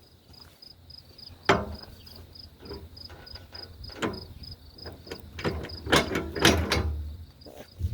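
A cricket chirping steadily, about three high chirps a second, with several knocks and clatters over it; the loudest knock comes about a second and a half in.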